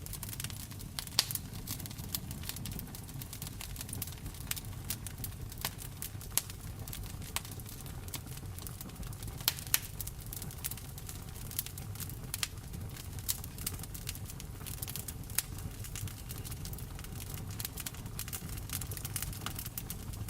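Wood fire crackling in a fireplace, with frequent irregular sharp pops, a few louder ones standing out, over a steady low rumble and the patter of rain.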